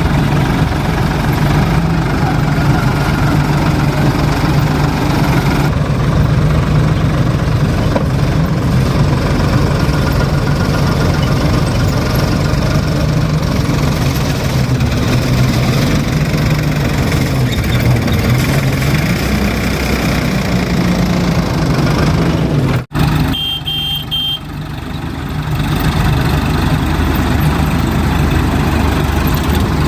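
Tractor diesel engine running steadily. About 23 seconds in it cuts out abruptly, stays quieter for about two seconds, then comes back.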